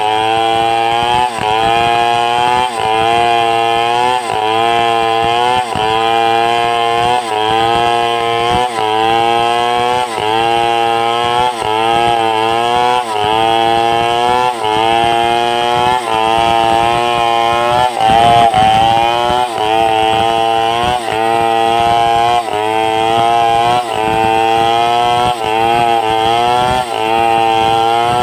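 Two-stroke chainsaw at high revs ripping timber lengthwise into boards. The engine pitch dips and recovers about every second and a half as the chain bites into the cut, and bogs down deeper once about two-thirds of the way through.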